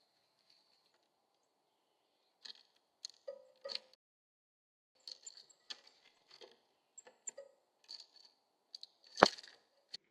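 Irregular taps and clicks of a bird feeding at a Bird Buddy feeder, picked up close by the feeder camera's built-in microphone, with one louder sharp knock near the end.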